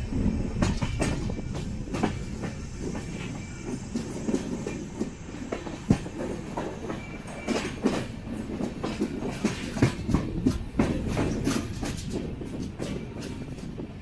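Express passenger train running at speed, heard from on board: a steady low rumble with the wheels clicking and knocking over rail joints.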